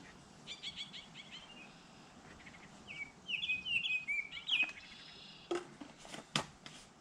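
Small birds chirping: a short run of quick chirps about half a second in, then a longer run of sharp chirps from about three seconds in to nearly five. Two sharp knocks or clicks near the end.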